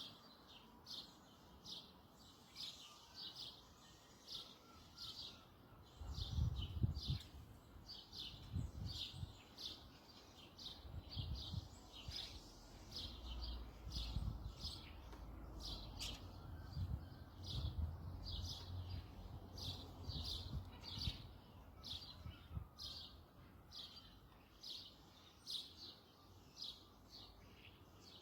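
A small bird chirping over and over, short high chirps at roughly two a second, with low rumbling on the microphone through the middle stretch.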